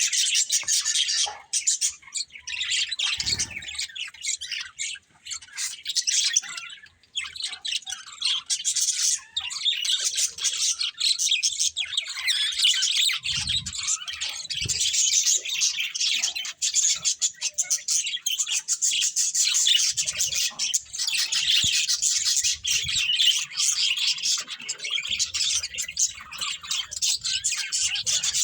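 Budgerigars chirping and chattering continuously, a busy overlapping warble of high calls, with a couple of brief low thumps among it.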